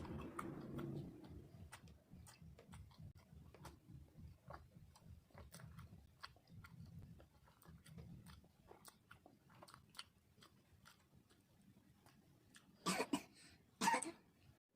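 Close-miked chewing of steamed rice cake with chicken curry: soft, wet mouth clicks and smacks throughout. Two louder bursts of eating sound come about a second apart near the end.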